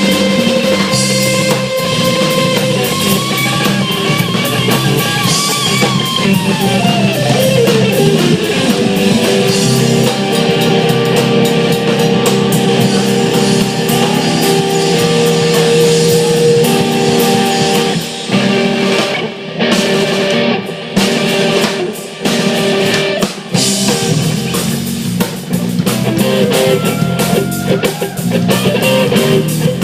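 Live rock band playing an instrumental jam on electric guitar, bass and drum kit. A held guitar note slides down in pitch about seven seconds in. Past the middle, the band plays a run of short stop-start hits with brief gaps between them.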